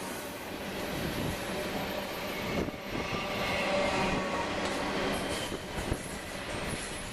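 Double-stack container train's well cars rolling past, a steady rumble and clatter of steel wheels on rail with faint squealing tones and a couple of sharp knocks.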